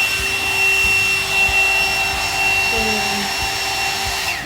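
2-in-1 hair dryer blowing on its low setting: a steady rush of air with a high-pitched motor whine, cutting off abruptly near the end.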